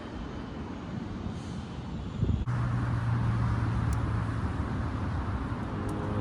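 An engine running steadily close by: a low, even hum that comes in suddenly about two and a half seconds in and stays level.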